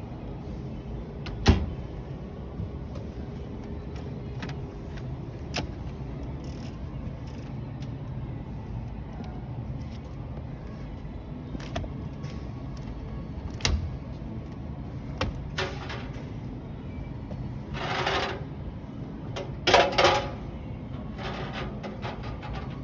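Steady shop background hum with scattered sharp clicks and knocks, the loudest a little over a second in. A few short, louder knocking bursts come near the end.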